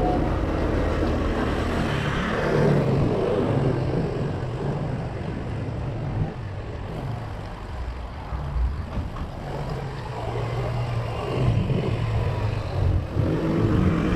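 Street traffic heard from a bicycle: engines of nearby vehicles running and pulling away, over steady road noise.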